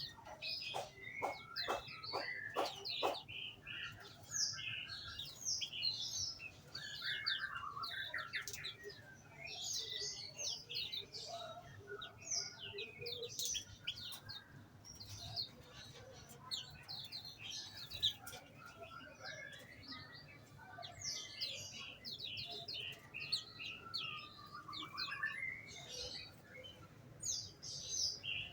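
A group of small songbirds in an aviary chirping and singing, with many short calls and trills overlapping without a break. Near the start there is a quick run of rapid repeated notes.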